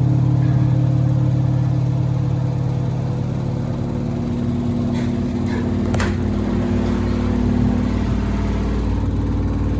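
Samsung WD70T4047CE washer-dryer with two pairs of sneakers inside, its drum spinning with a steady motor hum and whine that wavers slightly in pitch. One sharp knock about six seconds in.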